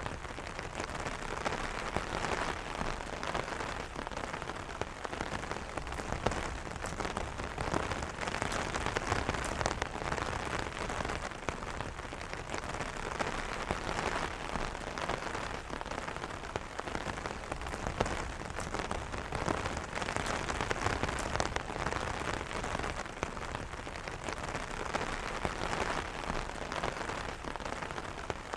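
Steady rain falling on an umbrella's fabric canopy, a dense patter of many small drop impacts.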